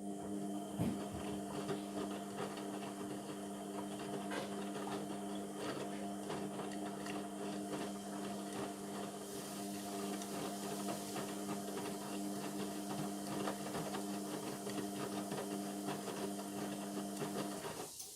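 Indesit MTWC71252WUK washing machine's drain pump running with a steady hum of unchanging pitch and a scatter of small rattling clicks. It cuts off abruptly near the end.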